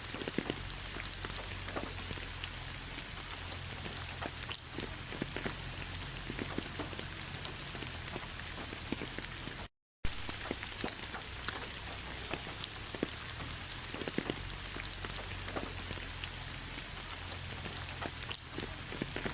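Rain falling on fallen autumn leaves: a steady patter with many separate drops ticking sharply on the leaves. The sound drops out to silence for a moment about halfway through.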